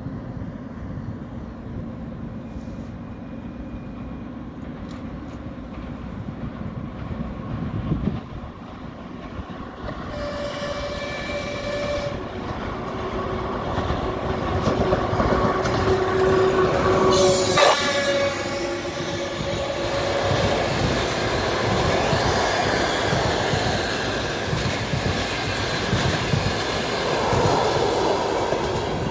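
A passenger train hauled by a ChS4 electric locomotive runs through the station without stopping. The locomotive sounds its horn about ten seconds in and again just before it passes. The coaches then roll by with loud clickety-clack of wheels over the rail joints.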